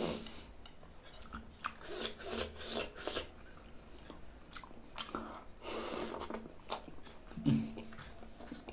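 Close-up mouth sounds of a person chewing soft ripe fruit: irregular wet chewing, smacking and small clicks of lips and tongue. A brief low hum comes about three-quarters of the way through.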